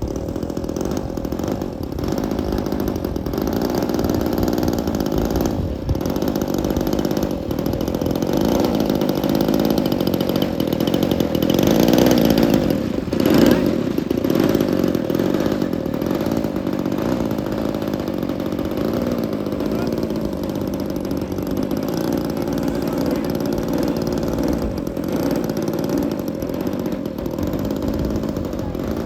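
Small 20cc two-stroke model-aircraft engine of a Seagull Ultimate RC biplane running with its propeller turning, its pitch drifting up and down with the throttle. It is loudest about twelve to thirteen seconds in.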